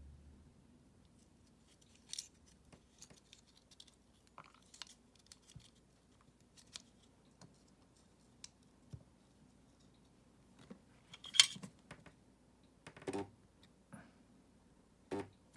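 Scattered small clicks, taps and scrapes of hand tools and small parts being handled on a work surface. There is one sharper, louder click a little after eleven seconds in, and a couple of duller knocks near the end.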